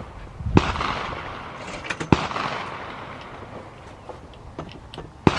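Three rifle shots, the second about a second and a half after the first and the third about three seconds later, each trailing off in an echo.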